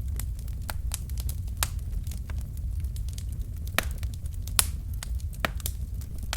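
Wood logs burning in a fireplace: irregular sharp crackles and pops over a steady low rumble of the flames, with two louder pops a little before the middle and just past it.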